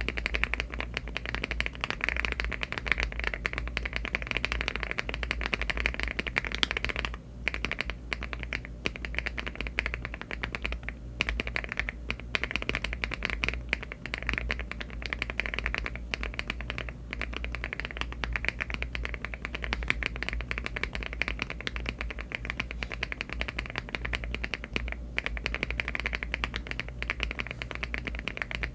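Typing test on a mechanical keyboard, most likely the LEOBOG Hi75 aluminium board fitted with HMX Glaze Jade switches and Cherry-profile keycaps. Fast, continuous keystrokes, with a brief pause about seven seconds in.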